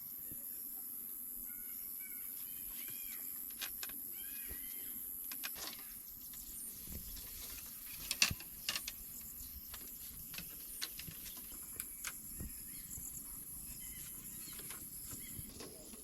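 Insects trilling in a steady high-pitched drone, with a few short bird chirps in the first few seconds and scattered sharp taps and clicks, the loudest about eight seconds in.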